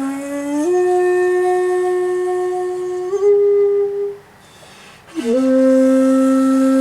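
Solo komuso-style shakuhachi playing slow long-held notes. The pitch steps up under a second in and again slightly near three seconds. After a short break for breath about four seconds in, a new lower note enters with a slight upward slide and is held.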